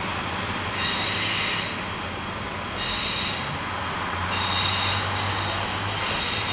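Approaching diesel train's wheels squealing on curved track in three high-pitched bouts, the last one longest, over a steady rumble, with a low engine drone growing stronger from about four seconds in.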